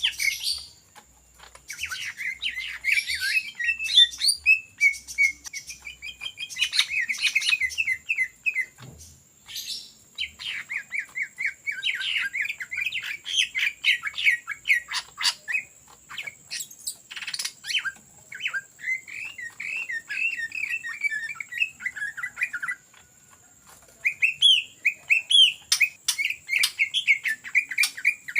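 Cucak ijo (green leafbird) singing in its rapid chattering 'ngetrok' style. Bursts of quick notes run for several seconds at a time, with short pauses near 9, 16 and 23 seconds in.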